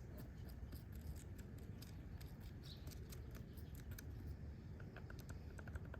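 Light, irregular clicking of small metal parts and hand tools being handled, ending in a quick, regular run of ticking clicks, over a steady low hum.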